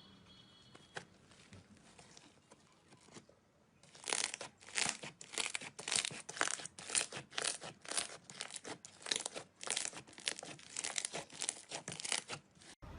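Knife cutting and scraping into a bar of soap: faint at first, then from about four seconds in a run of crisp, crumbly scraping strokes, about two a second.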